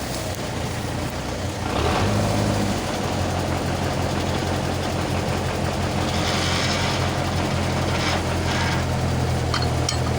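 Tractor diesel engine running steadily under load. It gets louder about two seconds in and then holds, with a short rush of hiss around the middle.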